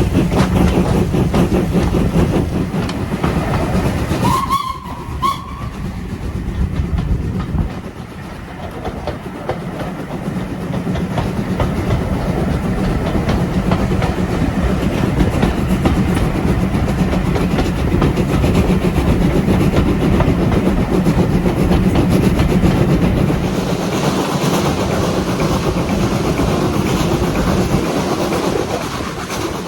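A train running on the rails with steady clatter. About five seconds in, a whistle gives two short notes.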